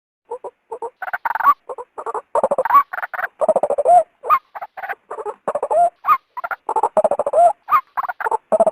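White-breasted waterhen (ruak-ruak) calling in a rapid, unbroken run of short repeated notes. It is the female's call, the one used to lure males out of cover.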